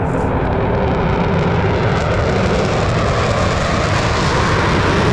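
Jet engine noise from a Blue Angels F/A-18 Super Hornet: a loud, steady rush that grows a little stronger and brighter about two seconds in.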